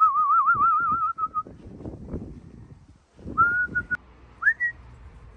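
Whistling to call racing pigeons in to the loft: a loud warbling trill, then a short held note and a quick rising whistle. There is low rustling noise underneath.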